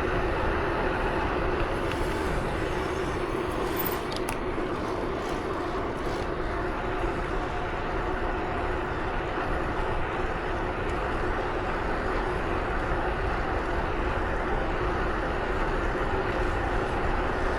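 Motor vehicle running at a steady cruising speed: an even engine drone under wind and road noise, with no change in speed.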